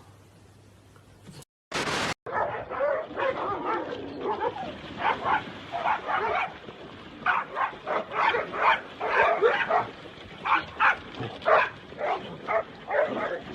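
A dog barking and whining in a long, irregular string of short calls that starts about two seconds in.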